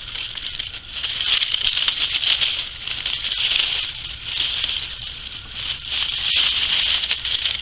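Dry penstemon stems and dead leaves rustling and crackling as they are handled and cut back, with small clicks through it. The rustle comes in several swells a second or two long.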